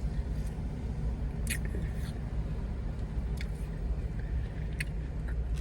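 Steady low rumble of a car's running engine heard from inside the cabin, with a few short clicks.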